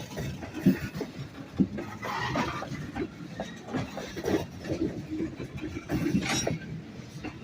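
A freight train rolling past on the WNYP line: a steady low rumble with irregular knocks and clanks from the wheels and cars, two sharp ones in the first two seconds.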